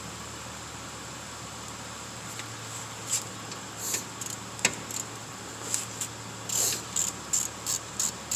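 Ratchet with a 14 mm socket loosening the brake caliper bolts: short, irregular bursts of ratchet clicking begin about three seconds in, over a steady low hum.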